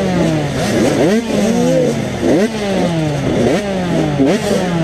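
Several 85cc two-stroke motocross bikes running on the track, their engine pitch repeatedly climbing and then dropping sharply as the riders accelerate, shift and roll off the throttle, with the different bikes overlapping.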